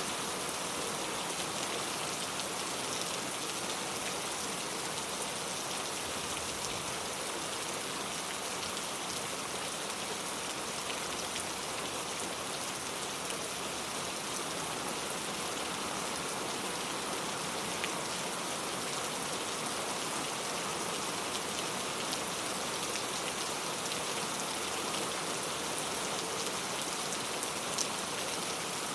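Steady rain falling, with the even hiss of a downpour and scattered individual drops pattering on surfaces.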